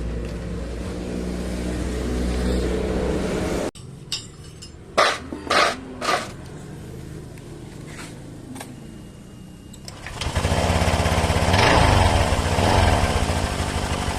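Honda Vario 150 scooter's single-cylinder engine running steadily, then, after an abrupt cut, a few sharp knocks, then the engine revved up and back down twice. The scooter is being checked for a strange noise from the magneto (flywheel and stator) side.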